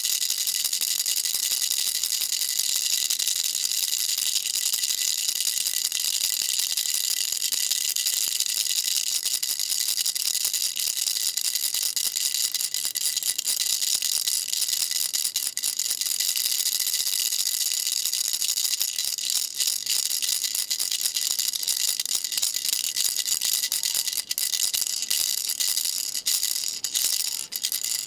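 Baby rattle shaken continuously, a dense steady high-pitched rattling of small beads, with a few brief breaks near the end.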